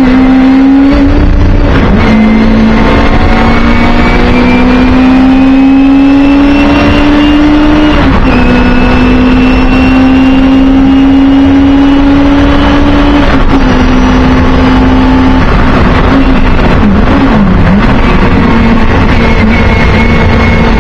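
Singer Chamois race car's rear-mounted four-cylinder engine heard from inside the cabin, revs climbing steadily under throttle with sharp drops in pitch at upshifts about eight and thirteen seconds in. Near the end the revs fall and quickly rise again as the car slows for a corner.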